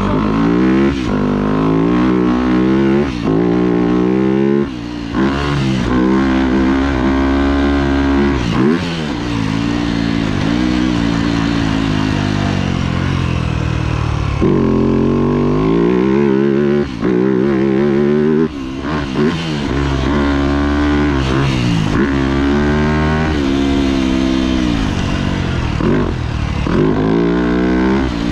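Yamaha YZ250F four-stroke single-cylinder motocross engine ridden hard, revving up and dropping back over and over as the rider shifts and rolls on and off the throttle, with a few short throttle cuts.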